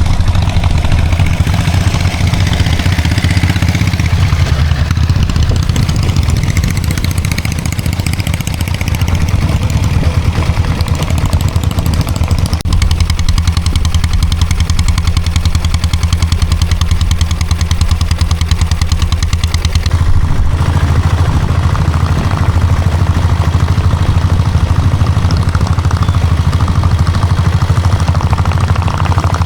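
Diesel Royal Enfield Bullet's single-cylinder Lombardini diesel engine running steadily, a loud low clatter of rapid firing strokes.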